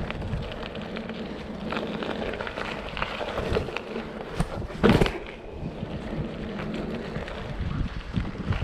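BMX bike rolling on pavement with wind buffeting the microphone, and one sharp knock about five seconds in.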